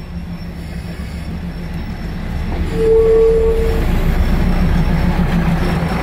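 Diesel train passing at close range, its running sound swelling louder about two and a half seconds in. Its horn sounds once, a single steady note about a second long, around three seconds in.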